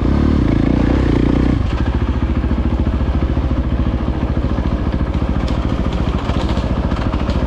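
Dirt bike engine running on the trail, held at higher revs, then about a second and a half in easing off to a lower, evenly pulsing beat.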